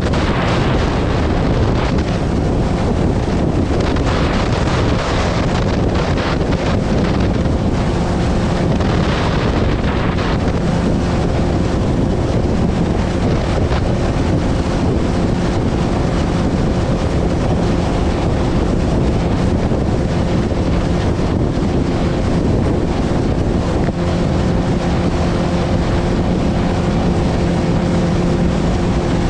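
Strong wind buffeting the microphone on a moving boat in rough, choppy water, with the boat's motor droning steadily underneath.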